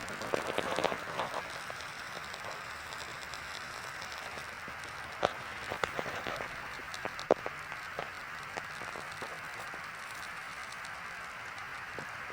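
Chicken shashlik sizzling over glowing charcoal embers: a steady hiss with scattered crackles and pops, a few louder pops around the middle.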